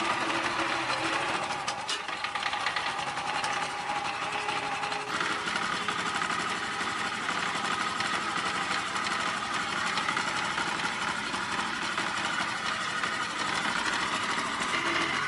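A motor-driven machine running steadily, with a fast, even mechanical clatter.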